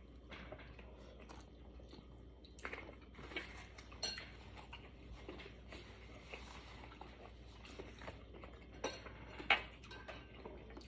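Eating utensils clinking and tapping against a soup bowl, a handful of short, scattered clicks with quiet stretches between them.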